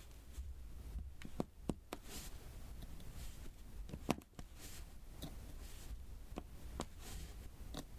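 Diamond painting pen tapping resin drills onto the sticky canvas: irregular light clicks and taps a second or so apart, with a soft scratching hiss between them.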